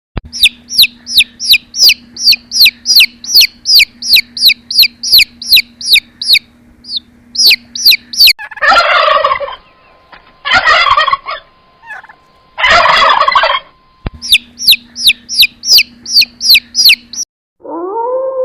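Bird calls: a rapid run of high, falling chirps, about three or four a second, broken about halfway through by three harsh, rough calls of about a second each, before the chirping resumes.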